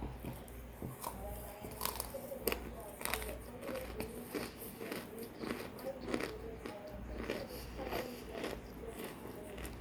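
Close-up biting and chewing of hard frozen chunks of cream straight from the freezer, with repeated sharp crunches throughout.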